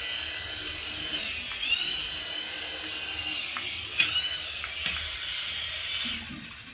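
High-pitched whine of a toy's small electric motor spinning fast, its pitch dipping and coming back up several times as the speed changes, with a sharp click about four seconds in; it fades out near the end.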